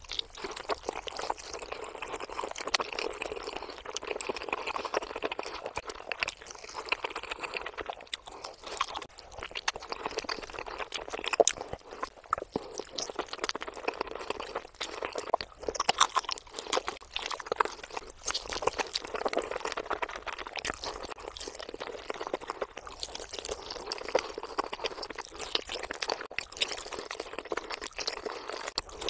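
Close-miked ASMR eating of a whole rotisserie chicken: wet, juicy chewing of the meat and crunching of the roasted skin, a continuous stream of small wet clicks and crackles.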